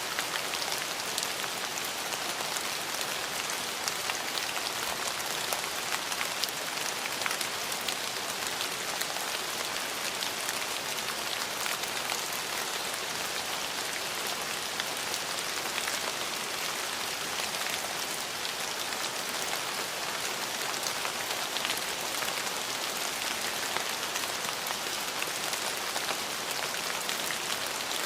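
Steady rain falling, a constant hiss made up of many fine, crisp drop patters, with no thunder.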